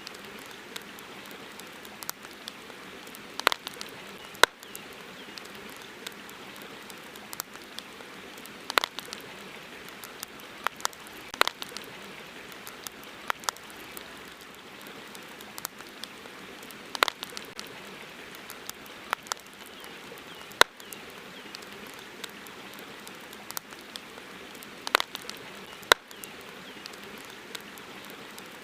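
Wood campfire crackling: sharp, irregular pops every second or two, some loud, over a steady even hiss.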